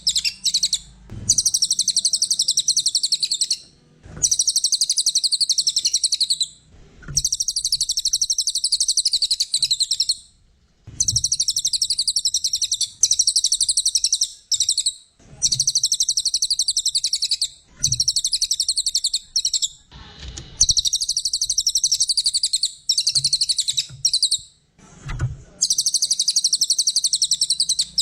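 A cililin coklat (brown cililin) songbird singing high-pitched, rapid chattering trills in phrases of one to three seconds, repeated about ten times with short pauses between them, recorded as a master song for teaching caged birds.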